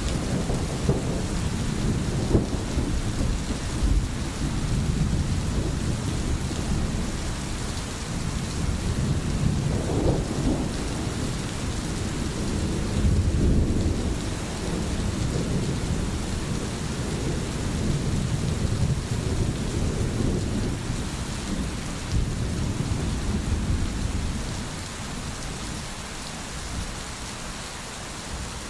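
Steady rain with a low, rolling rumble of thunder underneath that swells and fades, easing off near the end.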